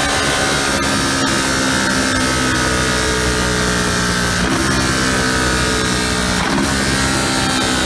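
Ducati 1299 Panigale's 1285 cc Superquadro L-twin engine running hard on a dynamometer, its pitch drifting slowly, with brief breaks in the note about four and a half and six and a half seconds in.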